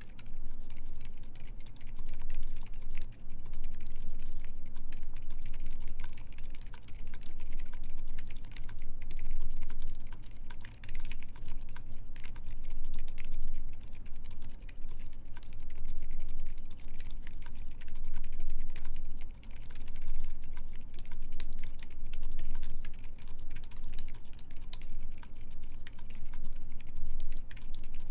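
Continuous, fast typing on a custom mechanical keyboard fitted with lubed Silent Alpaca silent linear switches: a dense, irregular stream of soft, muted keystrokes with no click, on an aluminium plate with GMK keycaps.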